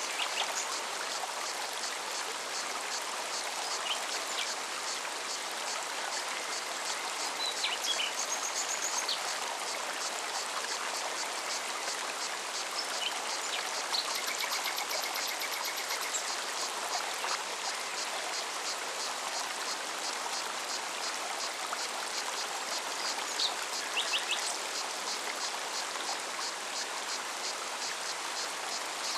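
Forest mountain stream flowing steadily over rocks, a continuous rushing of water. Above it a rapid, even high-pitched pulsing runs through, and a few short bird chirps come now and then.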